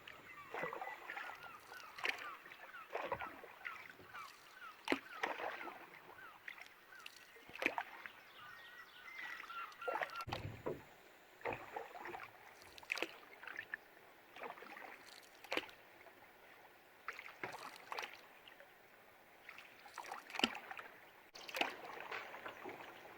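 Canoe paddle strokes, a splash and drip in the water every second or two. Birds call in the background, mostly in the first half.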